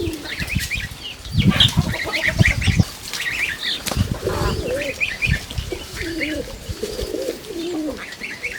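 A flock of farm birds calling, with repeated high chirps and low wavering coos or honks in the second half. A few heavy thumps come about one to three seconds in.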